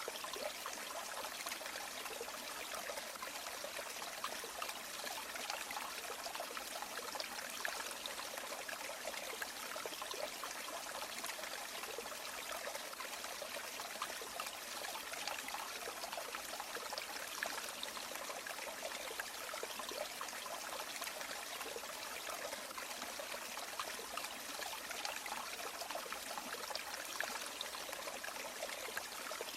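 River water flowing and trickling, a steady babbling with many small splashes and no change throughout.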